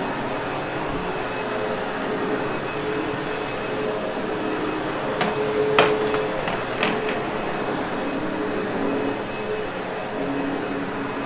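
Sebo X8 upright vacuum cleaner running steadily with a constant hum as it is pushed over carpet. A few sharp clicks come near the middle, the loudest about six seconds in.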